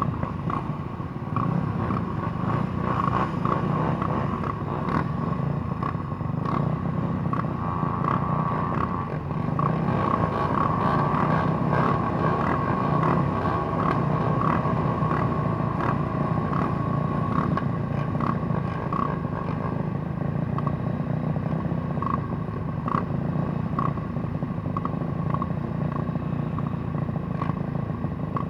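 150cc motorcycle engine running steadily, with repeated short clicks and clatter over it.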